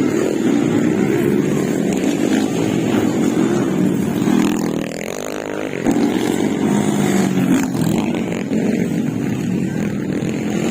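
Motocross dirt bike engines running and revving, the pitch rising and falling as the riders work the throttle. The engines ease off briefly about halfway through, then pick up sharply again.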